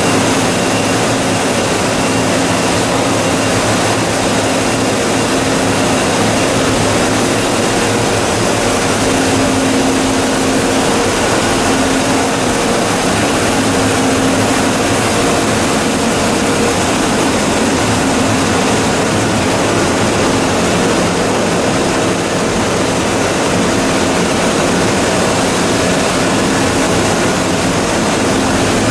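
YDN-100-2V-T two-stage plastic recycling machine running steadily: a loud, even mechanical drone with a hum that swells and fades a little.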